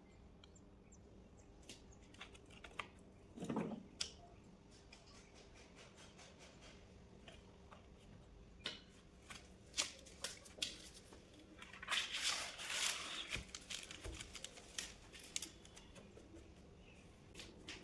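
Scattered light clicks and taps of hand work with tools and parts, with a short scraping or rustling stretch about twelve seconds in, over a faint steady hum.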